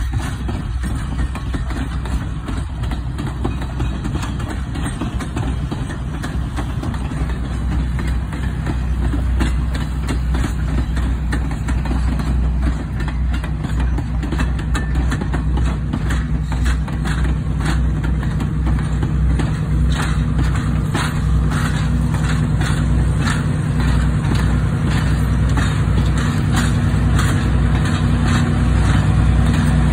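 Passenger train rolling past, its coach wheels clicking over the rail joints, with a diesel locomotive's engine tone growing louder through the second half as the locomotive at the rear draws near.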